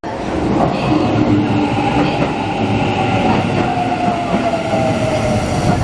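Electric commuter train moving along the platform, its running rumble overlaid with a steady, slightly wavering whining tone.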